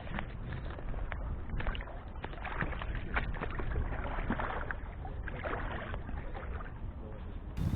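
Wind rumbling on the microphone, with irregular small clicks and knocks from fishing tackle being handled after a cast.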